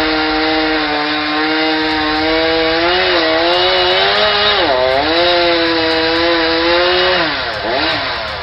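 Chainsaw running at high revs while cutting wood. Its pitch dips briefly about halfway through and again near the end.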